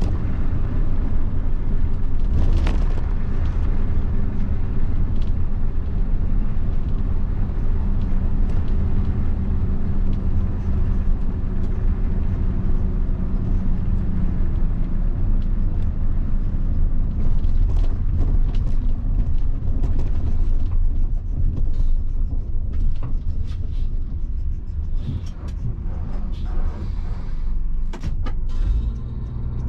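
Mitsubishi Fuso bus's diesel engine running with a steady low rumble, with scattered creaks and rattles. The sound eases somewhat over the last several seconds.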